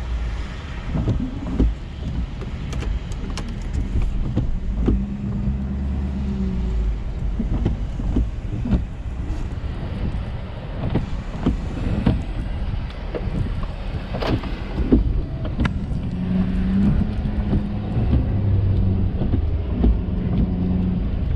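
Ford F-350 plow truck running, a steady low engine and road rumble with scattered knocks and thumps. A low drone rises in and out twice.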